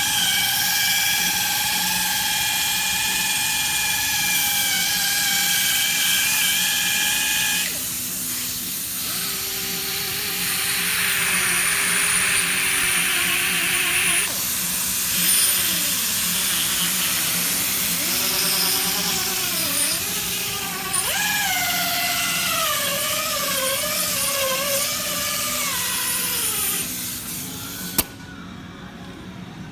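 Compressor-driven orbital polisher with a foam pad polishing a plastic headlight. It gives a steady high whine for the first several seconds, then drops in speed. Later its whine wavers up and down as the speed is eased back on the edges so as not to burn the paint. It stops near the end, followed by a single click.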